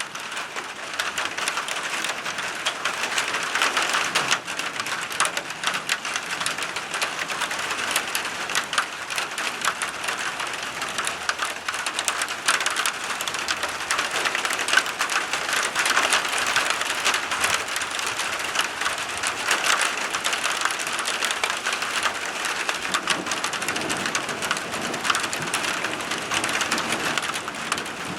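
Steady rain falling, with many individual drops striking a surface close by.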